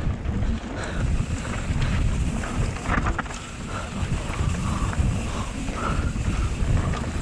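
Wind buffeting the action camera's microphone as a mountain bike rides down a trail, over a steady rumble from the tyres and bike on rough ground, with scattered small knocks and rattles.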